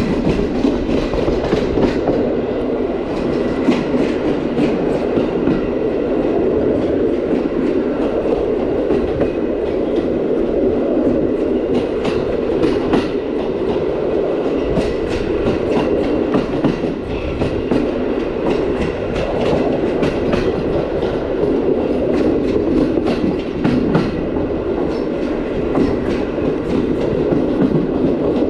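Passenger train coaches running along the line: a steady rumble from the wheels and running gear, with many irregular clicks and knocks as the wheels pass over rail joints.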